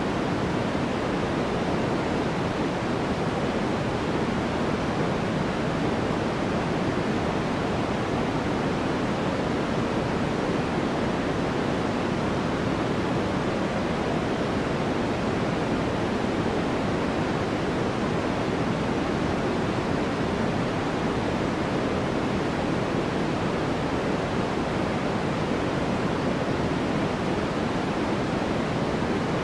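Steady, unchanging white noise of the kind played for sleep, an even hiss with no breaks or events. Most of its weight sits low and in the middle, so it sounds soft and deep rather than bright.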